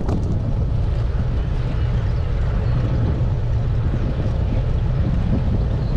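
Strong headwind buffeting the microphone of a bike-mounted GoPro Hero 8 while riding a road bike: a loud, steady, low rumbling wind noise.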